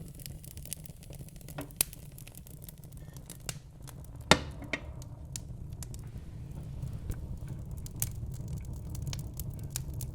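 Burning logs in a fireplace crackling: scattered sharp pops and snaps over a low steady rumble, with one loud pop about four seconds in.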